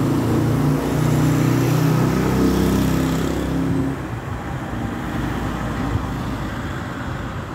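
A motor vehicle's engine running close by with a steady low hum, dropping away about four seconds in and leaving general traffic noise.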